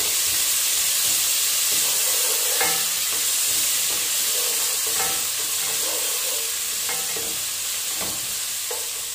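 Sliced onions, whole spices and ginger-garlic paste sizzling in hot oil in an aluminium pot, stirred with a slotted spatula that scrapes and knocks against the pot every second or two. The sizzle eases slightly near the end.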